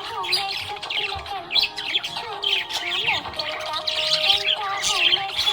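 Budgies chirping, chattering and squawking continuously in quick, busy bursts, over a song with a gliding melody playing underneath.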